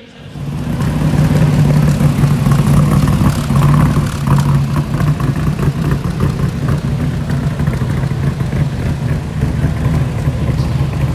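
Shelby Cobra's V8 engine running at a steady idle through its exhaust, loud and coming in abruptly at the start.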